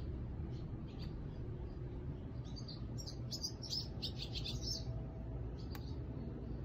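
Small birds chirping, with a quick run of high twittering chirps from about two and a half to five seconds in and scattered fainter chirps elsewhere, over a steady low background rumble. A single sharp click sounds near the end.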